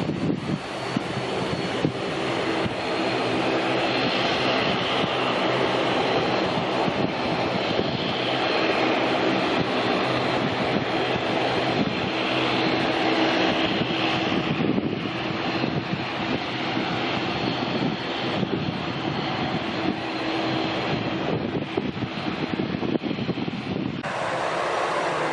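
Jet airliner engines running with a steady roar and a thin high whine over it. The sound changes abruptly near the end.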